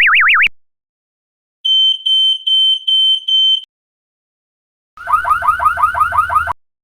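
A string of electronic alarm sounds with silent gaps between them. First a fast warbling siren cuts off about half a second in. Then a high-pitched alarm beeps five times in quick succession. Near the end comes a rapid train of short rising chirps, about seven a second, like an electronic whoop alarm.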